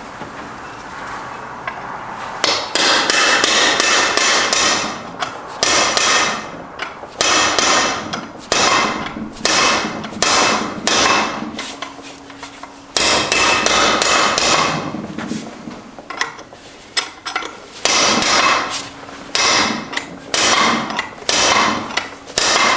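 Hammer blows on a Subaru STI six-speed transmission's cast aluminum case, struck repeatedly in runs, each hit ringing briefly, to break the scrapped case apart.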